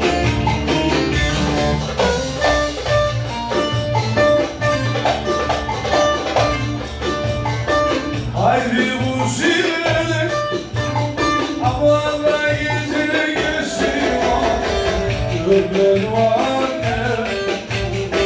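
Ankara folk dance music (oyun havası) with a plucked string instrument over a steady tambourine-style percussion beat.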